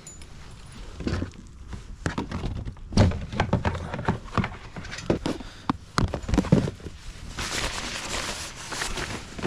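Rain gear being handled and pulled on while seated in a kayak: a run of irregular knocks and thunks with fabric rustling, then a steadier rush of rustling about seven seconds in.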